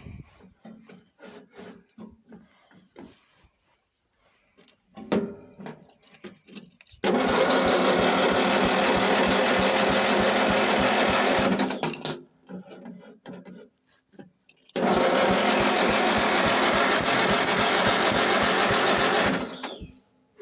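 Cub Cadet 80 garden tractor's engine being cranked over cold by its starter, two cranks of about five seconds each that stop abruptly without the engine catching. A few light clicks and knocks come before the first crank.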